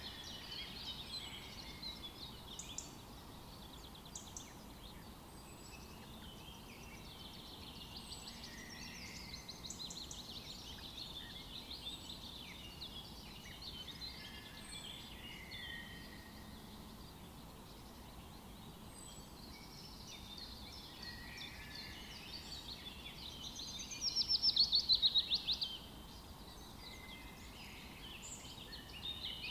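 Several songbirds singing together in a forest chorus, with a loud rapid trill lasting about two seconds near the end and faint high short calls repeating every second or two.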